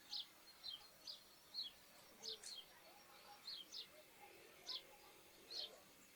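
Sparrows chirping: a string of short, high, falling chirps, about two a second, irregularly spaced over faint rural background hiss.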